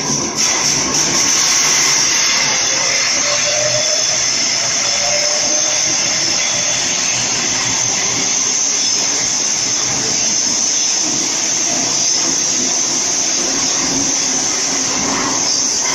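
Sydney Trains B set (Waratah Series 2) double-deck electric train running past while departing an underground platform, a loud steady rush of wheel and air noise. A faint rising whine comes in about three seconds in as it gathers speed.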